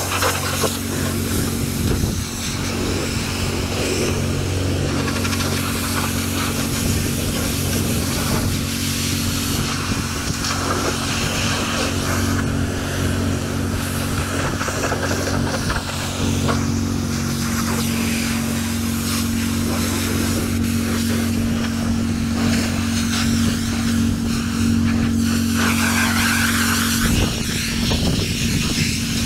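An engine running steadily at constant speed, with a steady hiss over it.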